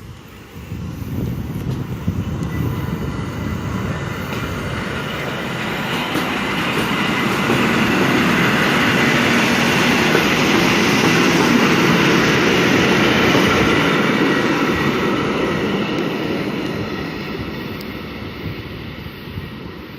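A train running past on the tracks, its noise building for several seconds, loudest around the middle, then fading away.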